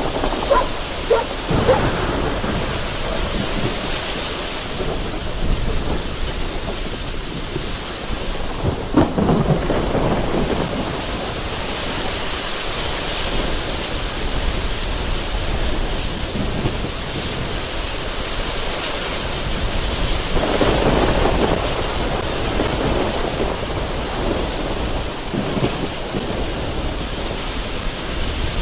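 Heavy rain beating against a window in gusty wind, with thunder rumbling and crackling in the background near the start, about nine seconds in, and again around twenty seconds in.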